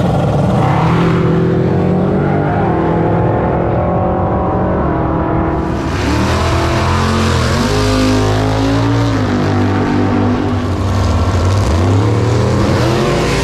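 Car engines running and revving, their pitch rising and falling, with an abrupt change in the sound about six seconds in.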